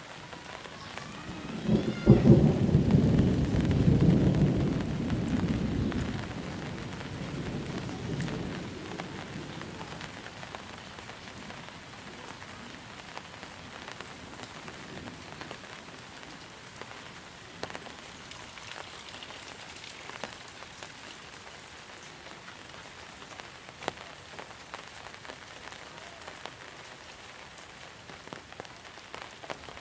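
A thunderclap about two seconds in, rolling into a deep rumble that fades away over several seconds, over steady monsoon rain falling and pattering on surfaces.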